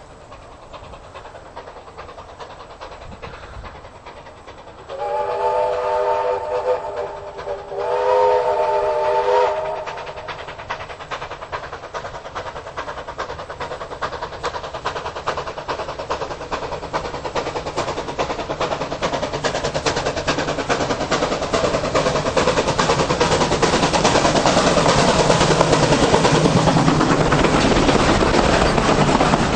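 A train sounds two long whistle blasts, each a chord of several tones. It then comes closer, its running noise growing steadily louder toward the end.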